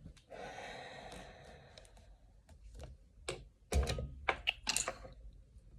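Double-sided sticky tape pulled off its roll in a rasp lasting about a second and a half, followed by a run of irregular sharp clicks and taps from handling the tape and collar.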